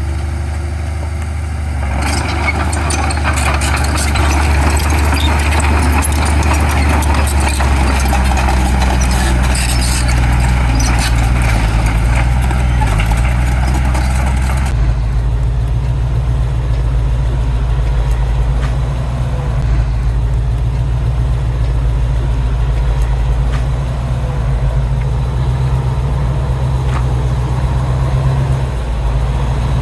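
Heavy diesel earthmoving machinery running with a steady low drone. For the first half a dense clattering noise with many sharp clicks sits over it, then stops suddenly about halfway, leaving only the engine.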